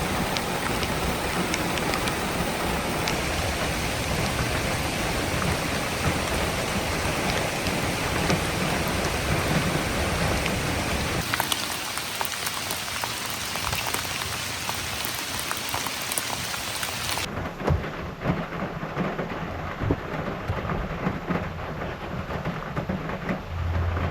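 Heavy rain pouring down steadily. About eleven seconds in the deep rumble drops away, and from about seventeen seconds on it turns into a patter of separate drops.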